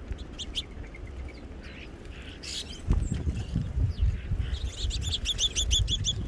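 Small songbirds at a feeder chirping, with scattered single chirps and then a fast, even run of about ten high notes near the end. Low thumps and knocks sound underneath from about halfway through.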